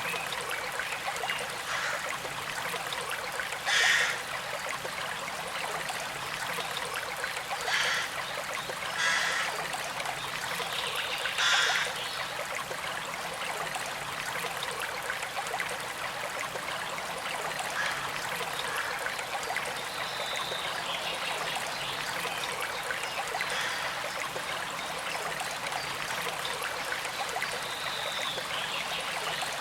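Small creek flowing and trickling steadily, with a few louder splashy gurgles about 4, 8, 9 and 12 seconds in.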